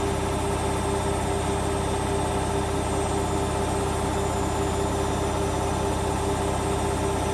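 Hoover Dynamic Vision washing machine running with a steady motor hum and whine at an even pitch.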